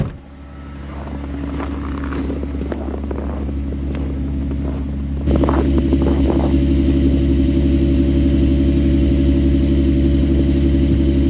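Ram ProMaster van's engine idling with its heater and defrost fan blowing, warming up to clear a frosted windshield. About five seconds in the sound steps up suddenly and stays louder, with a stronger airy hiss and a few clicks.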